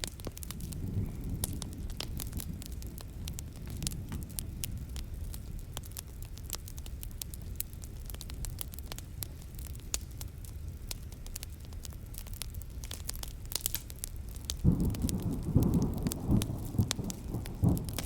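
Wood fire crackling with frequent sharp pops over the low rumble of a thunderstorm. Near the end a louder roll of thunder comes in.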